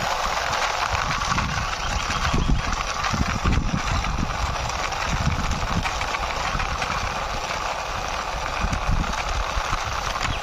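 Plastic wheels of a toy fire truck rolling along a rough concrete wall top as it is pushed by hand, a continuous gritty rattle. Wind buffets the microphone underneath.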